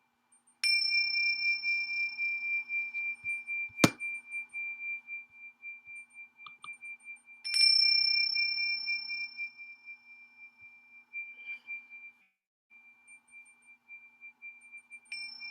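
A high, pure metal tone from a sound-healing instrument, struck three times about seven seconds apart. Each strike rings out with a slow wavering pulse and fades gradually. A sharp click sounds about four seconds in.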